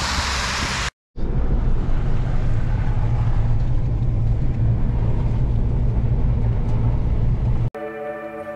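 A car on the move: a steady low rumble of engine and road noise, after a short edit gap about a second in. It stops suddenly near the end, where acoustic guitar music begins.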